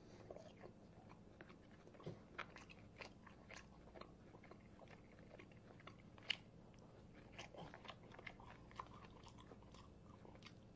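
A person chewing and biting food close to the microphone: faint, irregular crunches and mouth clicks, with one sharper click about six seconds in.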